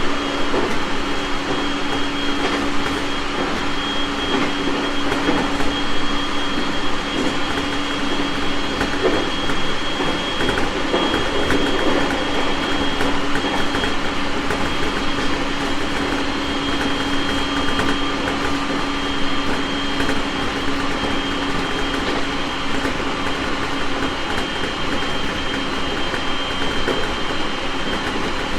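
JR East 701 series 1000-subseries electric multiple unit running along the track: steady wheel-on-rail rumble with a steady low hum and a thin high whine from the drive.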